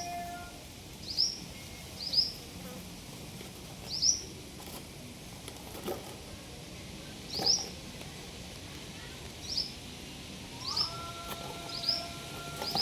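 A parrot giving short, sharp, high chirps, about nine of them spaced a second or two apart. A steady hum joins about eleven seconds in.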